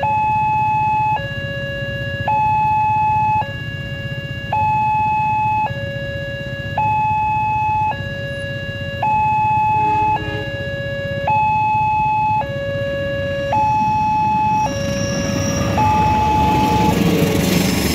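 Level crossing warning alarm sounding a two-tone electronic signal, alternating a high and a low tone about a second each, on repeat. The alarm signals that a train is approaching the crossing. Near the end, a rising rushing noise builds up under the alarm.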